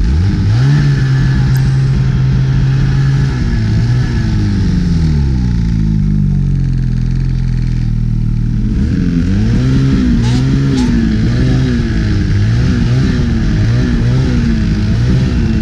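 Snowmobile engine revving up as it pulls away, holding a steady pitch, then easing off. From about nine seconds in, the revs rise and fall repeatedly, a little more than once a second, as the throttle is worked.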